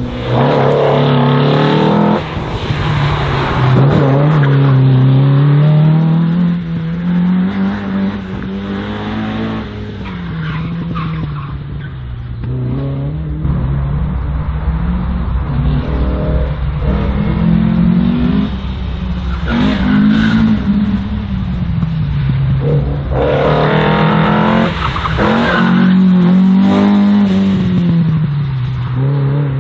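Race car engine on a slalom run, revving up and dropping back again and again as the car accelerates and brakes through the course, with tyres squealing at times.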